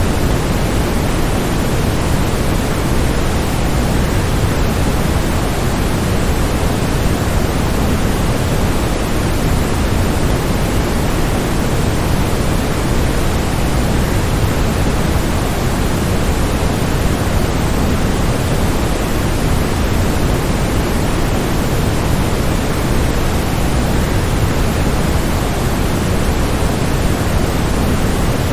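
Waterfall: a steady, unbroken rush of falling water, heavier in the low end than the hiss, with no change throughout.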